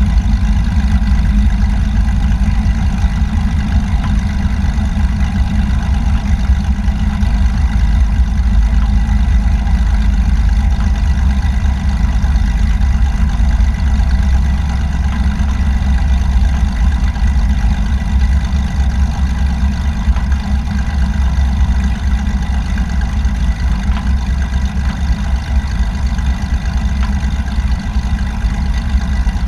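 Light aircraft's piston engine and propeller droning steadily at constant power, a loud low rumble with a faint steady whine above it and no change in pitch.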